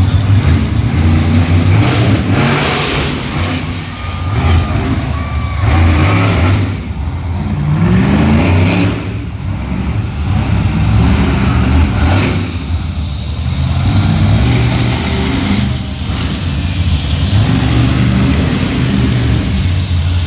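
Monster truck engine running hard, revving up and dropping back again and again, with a rising rev about a third of the way in.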